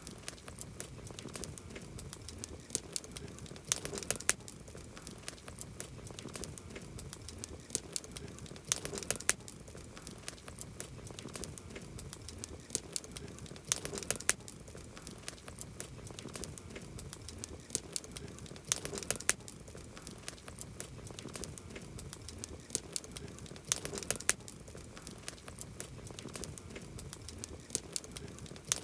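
Wood campfire crackling steadily, with small pops throughout and a cluster of sharper, louder pops about every five seconds.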